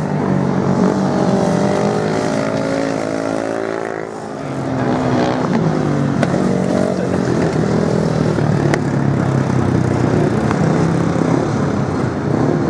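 Racing motorcycle engines running hard on a beach sand track, holding a steady high note; the sound dips briefly about four seconds in, then rises again as more bikes come through.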